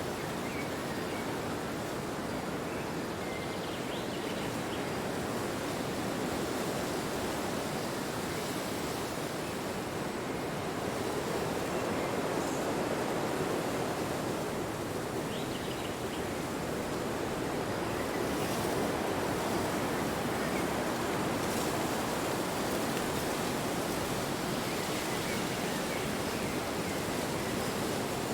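Wind blowing steadily, a constant rushing that swells and eases gently in strength.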